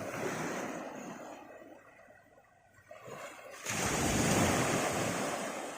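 Sea surf washing on the beach: one rush of water fades away, then a wave breaks suddenly, louder, about two-thirds of the way through and washes up before easing off.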